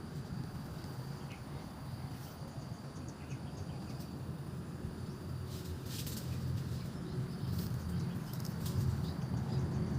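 Outdoor insects, crickets or the like, chirping steadily on one high note over a low rumble, with scattered faint clicks.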